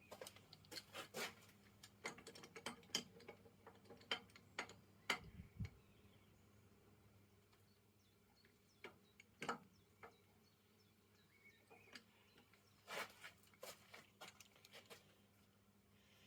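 Scattered light clicks and knocks of small hard objects being handled, bunched in the first few seconds and again near the end. A faint low hum stops with a soft thud about five seconds in.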